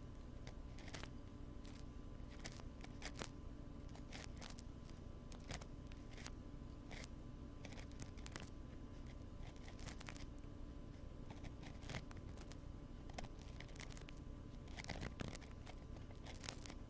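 Close-miked ear-cleaning sounds: an ear-cleaning tool scratching and tapping on a binaural microphone's ear in short, irregular scrapes and clicks, busiest about fifteen seconds in, over a steady low hum.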